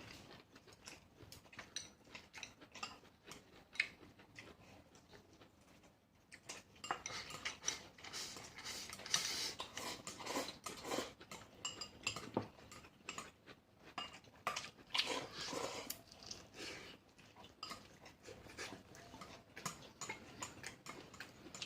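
Eating utensils clicking and clinking against bowls and plates at a meal: a scatter of small knocks, busier for several seconds in the middle.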